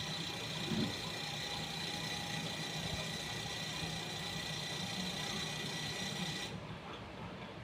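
Steady mechanical hum with a high-pitched whine that cuts off suddenly near the end.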